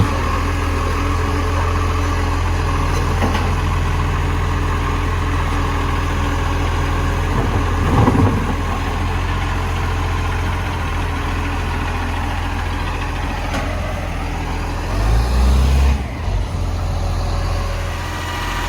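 Garbage truck engine idling steadily, with a brief louder noise about eight seconds in and a short deeper surge in engine sound near the end.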